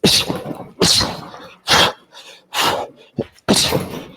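Five sharp, forceful exhales, about one a second, a boxer breathing out hard with each cross punch thrown.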